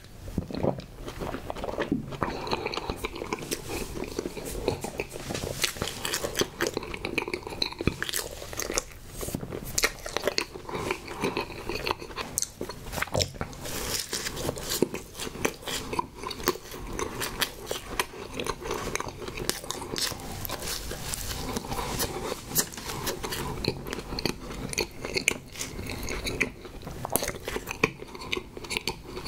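Close-miked biting and chewing of a pink, coconut-and-marshmallow-coated Sno Ball snack cake, with irregular soft crunches and mouth noises throughout.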